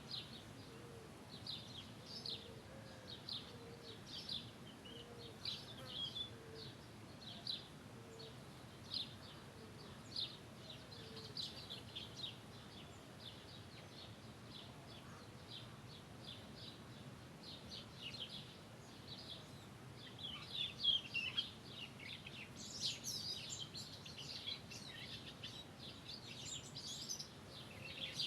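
Small birds chirping with short, repeated high calls over a faint steady background, the calling growing busier with several birds overlapping in the last eight seconds or so.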